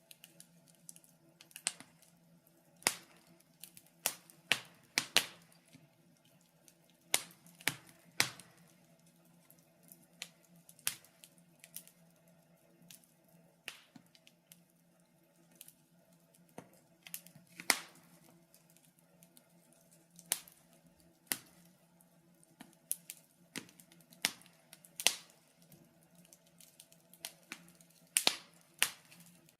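Wood fire crackling: irregular sharp pops and snaps, a few every couple of seconds, over a faint steady low hum.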